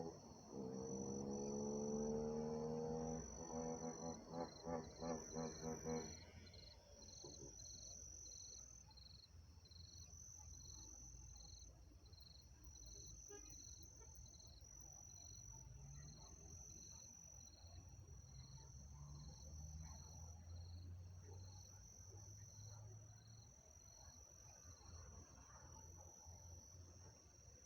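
Music with held, layered tones fades out about six seconds in, leaving faint crickets chirping in steady, even pulses.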